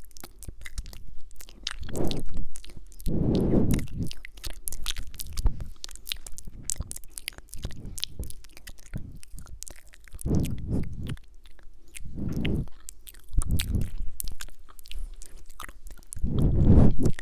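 Close-miked mouth sounds: many wet clicks and lip smacks, with soft breathy swells every second or two.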